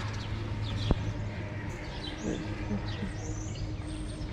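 Faint, scattered short high chirps over a steady low hum, with a single sharp click about a second in.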